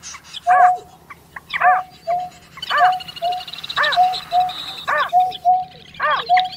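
A bird calling over and over in an even rhythm: short flat hoots alternating with rising-and-falling notes, about one a second.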